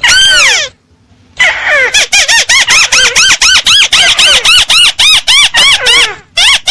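Recorded lure call of a crake (burung tikusan), played loud: one long falling call, then after a short pause a fast run of arched notes, about four a second, that breaks off near the end.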